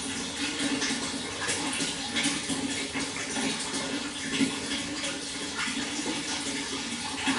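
Water flowing and splashing steadily, a dense continuous rush with small irregular spatters.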